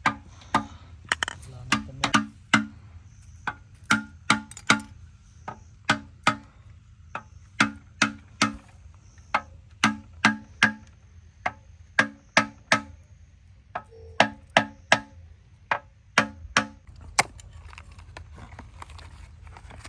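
Sharp knocks struck one after another on engine parts, uneven in spacing at roughly one or two a second, many leaving a short low ring; they stop near the end.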